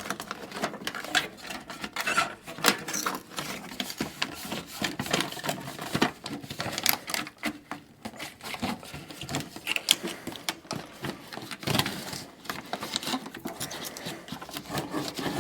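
Rapid, irregular clicking, tapping and light rattling, the sound of hand work on the furnace with tools and small metal parts.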